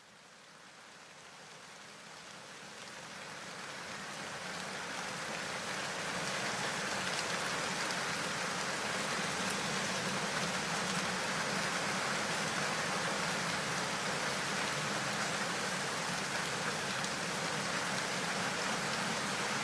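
Heavy rain falling as a steady hiss, fading in from silence over the first several seconds and then holding steady.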